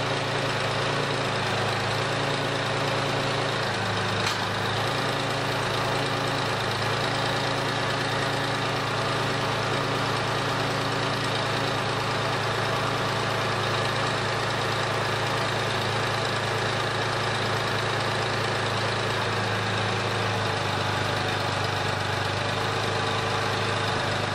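Isuzu Trooper engine idling steadily with the air conditioner, headlights, fog lights and radio switched on, putting the alternator under full electrical load while it still charges at about 14 volts.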